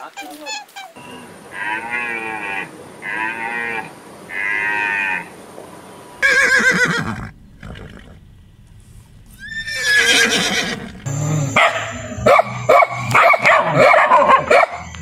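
Animal calls one after another: three short matching calls about a second and a half apart, then a horse neighing around the middle, then a dog barking over the last few seconds.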